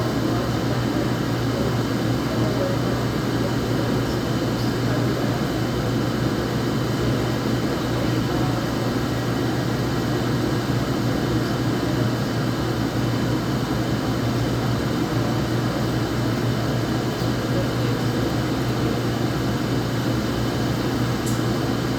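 Laundromat machines running: a steady low mechanical hum with an even rushing noise over it, unchanging throughout.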